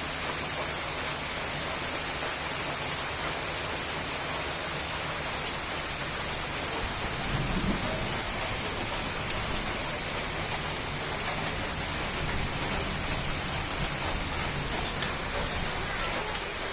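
Steady heavy rain, an even hiss, with a brief low rumble about seven and a half seconds in.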